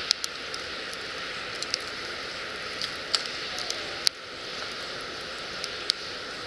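Firewood crackling in a campfire pit: a steady hiss of burning with sharp pops and snaps every second or so, the loudest about four seconds in.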